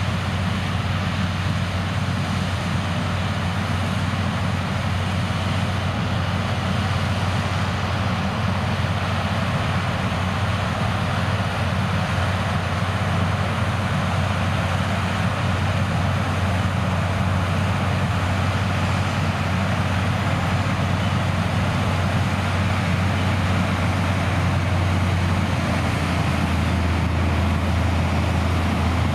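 Heavy farm harvesting machinery running steadily: a constant deep engine drone with a wash of mechanical noise over it, the low hum getting a little heavier near the end.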